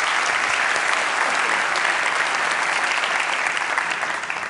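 An audience clapping in applause.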